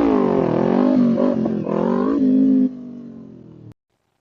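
Kawasaki Ninja 400 parallel-twin engine revving under acceleration, its pitch climbing and falling a few times, then steadying and easing off more quietly; the sound cuts off abruptly near the end.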